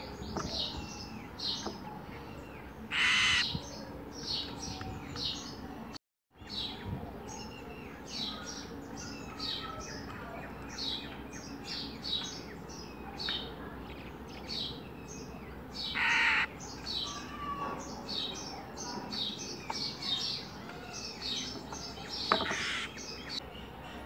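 Small birds chirping over and over in short, high notes. Three louder, longer calls stand out about 3, 16 and 22 seconds in, and the sound cuts out for a moment about six seconds in.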